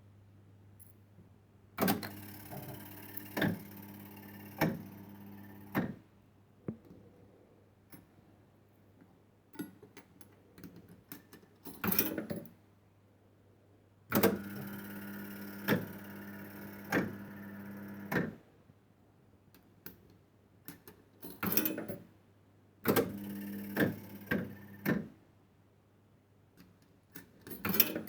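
1970s fruit machine playing three games: each time its reels spin for a few seconds with a steady motor hum and stop with a series of sharp clunks. Short clattering mechanical bursts come between the spins, and a low mains hum runs underneath.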